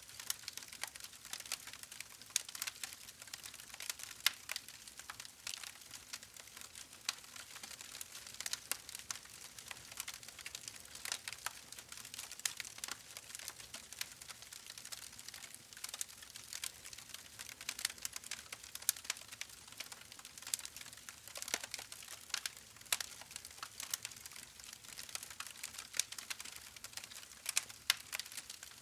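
Wood fire crackling in a fireplace: a steady stream of irregular small pops and snaps over a soft hiss, with a few sharper cracks standing out.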